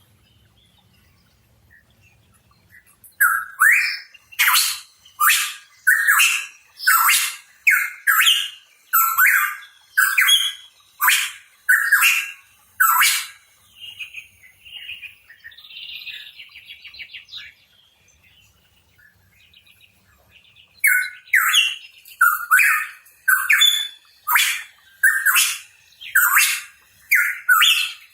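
Pitohui calling: two long runs of loud, rapid notes, each rising sharply, about one to two a second. Between the runs come a softer warbling passage and a short pause.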